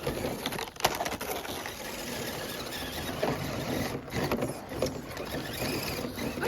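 Small radio-controlled crawler trucks moving on ice: electric motor and gear whine mixed with tyres and plastic scraping and scrabbling, with scattered clicks.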